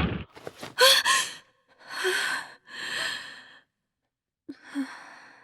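A person's voice gasps sharply, then takes two long, heavy breaths; after a short pause there is one more breath.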